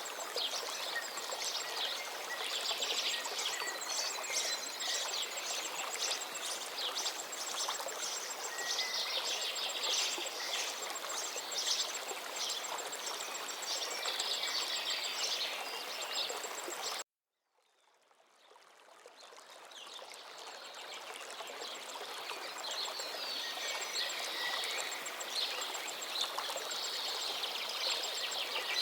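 Forest river flowing steadily, with songbirds singing and chirping over it. Everything cuts out abruptly for about half a second a little past halfway, then fades back in over a few seconds.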